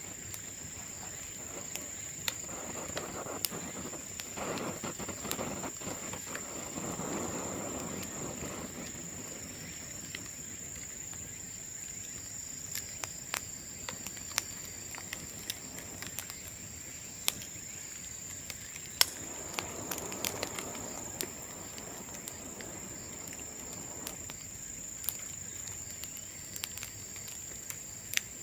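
Bamboo bonfire crackling, with scattered sharp pops and two stretches of louder rushing noise.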